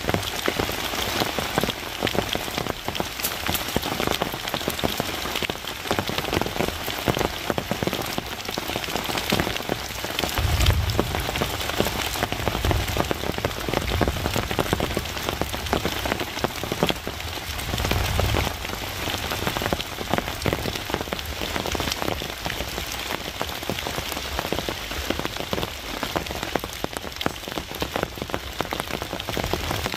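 Steady rain falling on the forest and the tarp shelter, a continuous hiss full of separate drop ticks. A few short low rumbles come in from about ten to eighteen seconds in.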